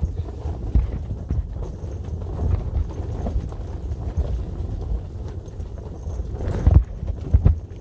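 Gusty wind buffeting, a continuous low rumble broken by irregular low thumps and knocks, loudest a little before the end.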